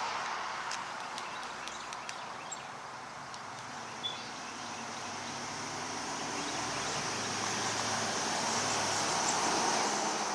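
Outdoor ambience: a steady rushing noise that swells in the second half with a low hum, like a vehicle passing, and a few short, high bird chirps in the first half.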